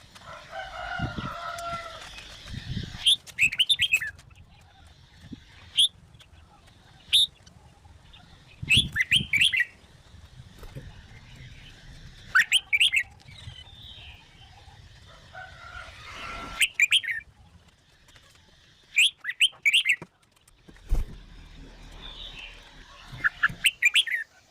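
Red-whiskered bulbul singing short phrases of bright, quick whistled notes every few seconds, with low knocks and rustling between the phrases.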